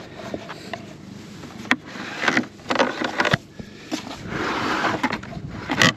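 Hands working the latches and slide of a bee-catching container: a series of sharp knocks and clicks, with scraping rushes about two seconds in and a longer one from about four seconds.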